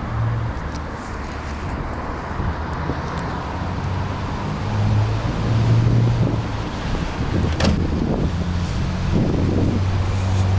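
Car engine running with a steady low hum that swells a little around the middle and again near the end, with a few light knocks over it.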